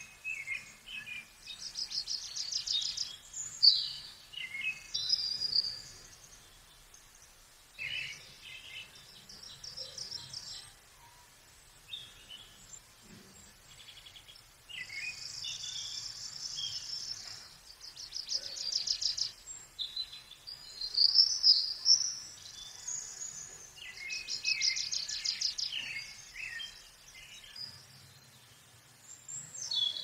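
Songbirds singing: several high, rapid trills of a second or two each, mixed with chirps and shorter notes, coming in phrases a few seconds apart.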